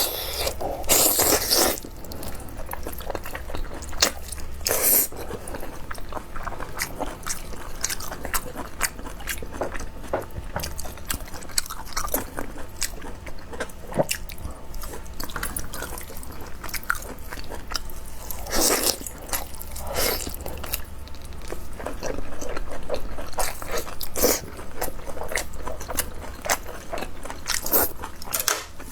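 A person chewing and biting food close to the microphone: a steady run of small clicks, with louder bites every few seconds.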